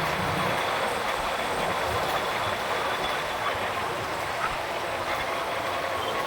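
Steady city traffic and road noise, an even hiss with a few faint steady tones running through it.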